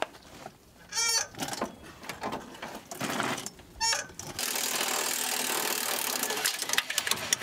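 Impact gun hammering on a stubborn, rusted exhaust manifold bolt. Two short bursts come about a second and about four seconds in, then a continuous hammering run of about three seconds to the end.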